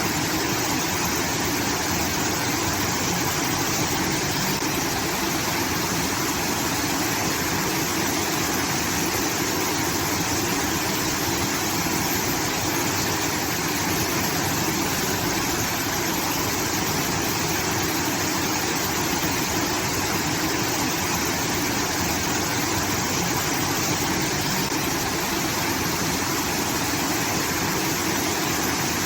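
Water from a rice-field irrigation channel pouring and splashing without pause, a steady rushing like a small waterfall.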